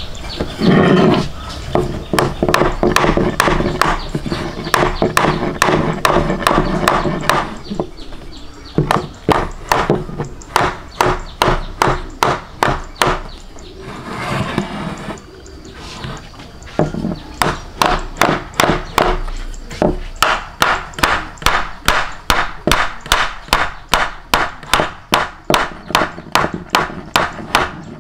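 A fast run of sharp, evenly spaced knocks, about three to four a second, with some steady pitched sound under them in the first third and again about halfway through.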